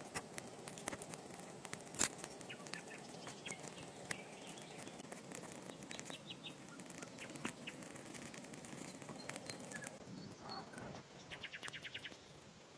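Outdoor nature ambience: scattered bird chirps and a short rapid trill near the end, over a steady low rushing haze. Sharp clicks and ticks come throughout, the loudest about two seconds in.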